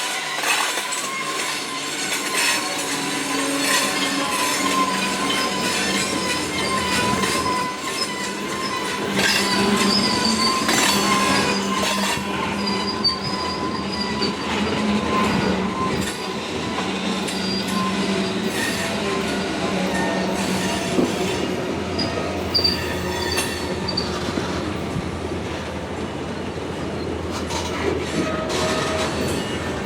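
Freight train switching slowly: the diesel locomotive's engine drones steadily while the steel wheels squeal on the rails. A held tone runs through the first half, and higher, thinner squeals come in stretches.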